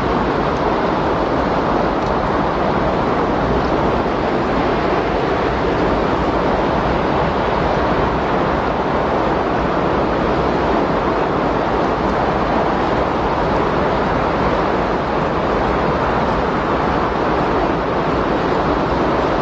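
Windstorm sound: a steady, even rush of wind noise with no gusts, breaks or changes.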